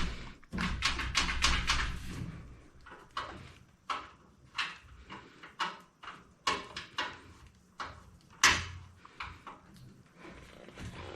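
Parts of a washing machine stand being handled and adjusted: a quick run of scraping knocks for about two seconds, then scattered sharp clicks and knocks, the loudest about eight and a half seconds in.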